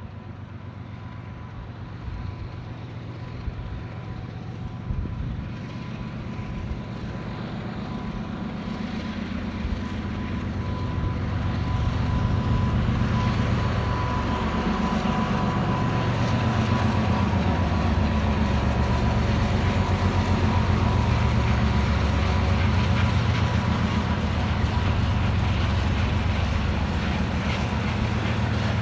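2TE116UD two-section diesel locomotive running with a freight train: its diesel engines grow louder over the first twelve seconds, then stay loud and steady, with the engine note shifting in pitch around the middle.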